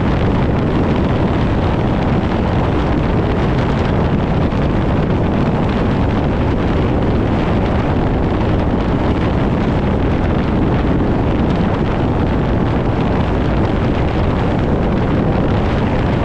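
Steady, loud rumble of a moving vehicle, with wind buffeting the microphone.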